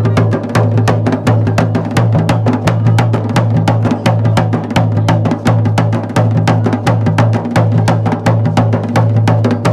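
Music of fast, steady drumming, about five strokes a second, over a low sustained tone.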